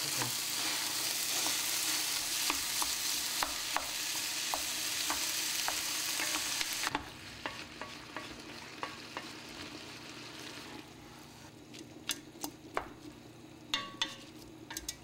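Ground beef and onions sizzling as they brown in a stock pot, stirred and broken up with a wooden spoon that scrapes and taps against the pot. The sizzle drops sharply about seven seconds in and fades further, leaving mostly the spoon's scrapes and taps near the end.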